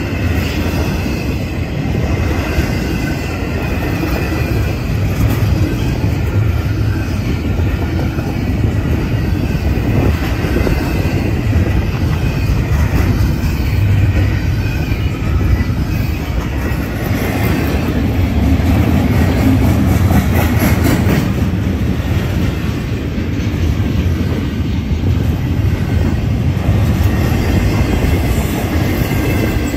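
Loaded double-stack container well cars of a freight train rolling past close by: a steady heavy rumble of wheels on rail with clicking clatter, thickest about two-thirds of the way through.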